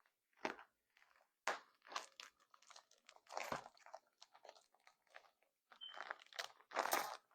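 Irregular, fairly faint crunching and crackling close to the microphone, a quick run of short crackles of uneven strength.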